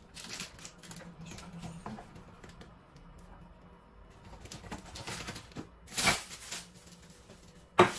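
Food packets and containers being handled while a pantry drawer is sorted: scattered rustling and light knocks, a louder rustle about six seconds in and a sharp knock near the end.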